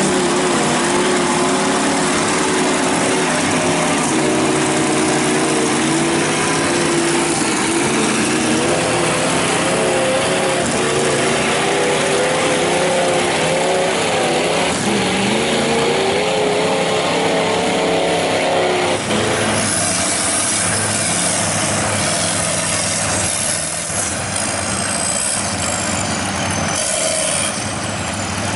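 Mud truck engine running hard, its pitch wavering and climbing as it is revved. About two-thirds of the way in it gives way to a rougher rushing noise, with a high whistle falling in pitch a few times near the end.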